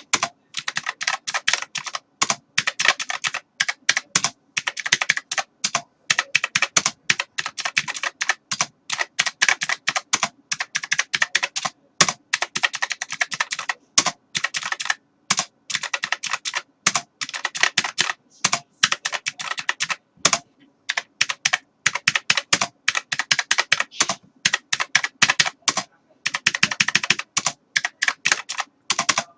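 Computer keyboard typing: rapid, continuous key clicks in quick bursts with brief pauses between them.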